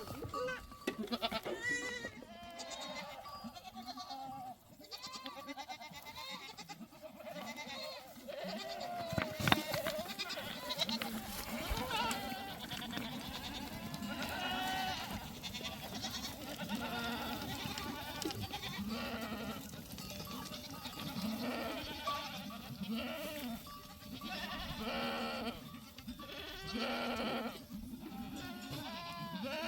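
A herd of goats bleating, many short overlapping calls at different pitches, with one sharp knock about nine seconds in.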